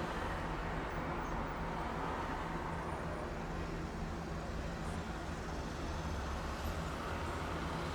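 Steady city traffic noise heard from a hotel balcony: a continuous wash of distant road traffic with a low engine hum underneath.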